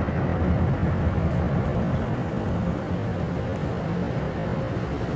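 Steady rushing noise of a Belanger car wash tunnel's equipment, heard from inside the car's cabin as it rides the conveyor toward the rinse and dryer section.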